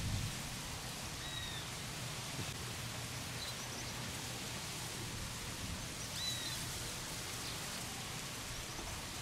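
A bird gives a few short, arching whistled notes, about a second in and again about six seconds in, over a steady outdoor hiss.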